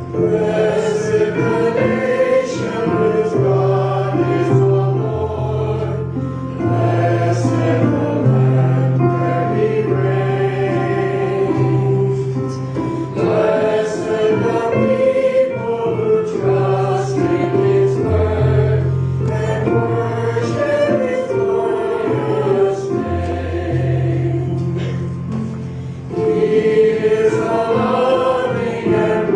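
Congregation or choir singing a hymn, accompanied by keyboard with sustained bass notes.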